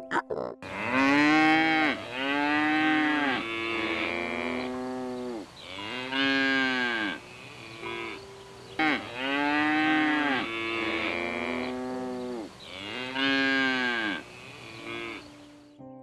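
A cow mooing repeatedly, about eight long calls, each rising and then falling in pitch.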